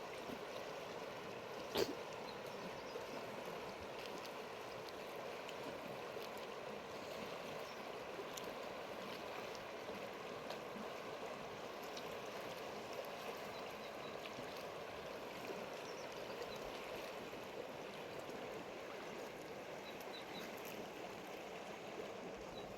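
Mountain river running steadily over stones, with one sharp knock about two seconds in.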